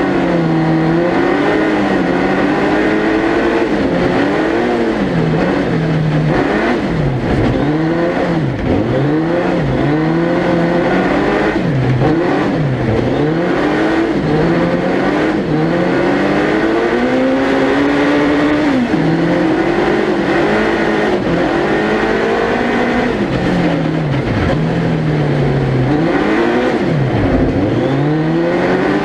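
Suzuki Hayabusa 1300cc four-cylinder motorcycle engine in a four-wheel-drive prototype ice racer, heard onboard, revving hard: the pitch climbs through each gear, drops sharply at the shifts and lifts off, and rises again over and over through the corners.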